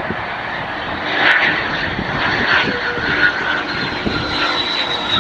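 Fixed-wing airplane engine running, with a steady high whine that slowly drops in pitch.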